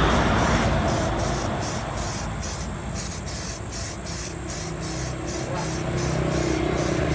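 Aerosol spray-paint can hissing in a steady, continuous spray as brown-grey primer is applied to a motorbike wheel rim.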